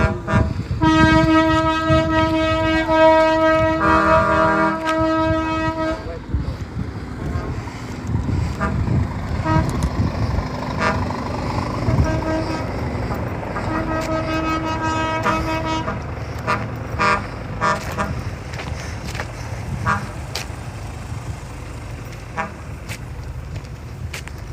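Truck air horns blowing: a long steady blast of about five seconds, joined by a second, lower note for its last two seconds, then short toots and another blast of about two seconds midway, over a low rumble.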